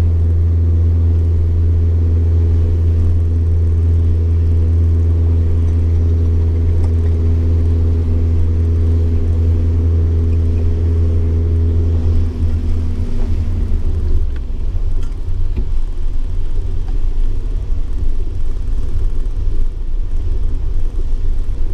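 Motorcycle engine running at a steady speed while riding. After about twelve seconds the steady engine note gives way to an uneven rumble.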